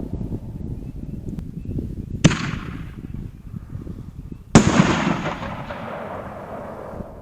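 Two 5-inch canister firework shells going off, about two seconds apart: two sharp booms, the second louder and followed by a long echoing tail that fades away.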